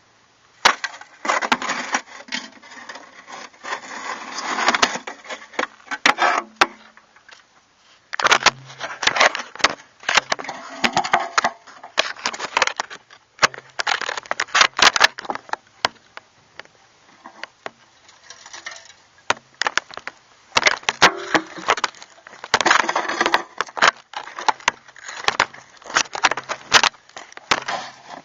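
Dry crunching and cracking in irregular bursts, broken by short quieter gaps, like brittle debris being stepped on or handled.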